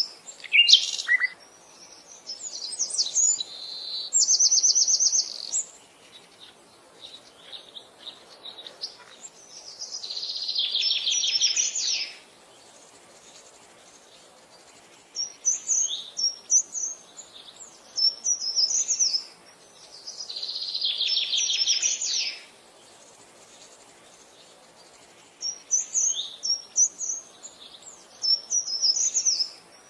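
Wild birds singing: bursts of short, high chirping phrases, broken twice by a rapid buzzy trill lasting about two seconds, with brief lulls between songs.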